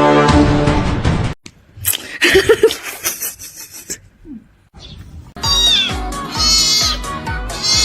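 A long low horn-like tone cuts off about a second in. Later comes a run of cat meows: high and wavering, loudest in the second half.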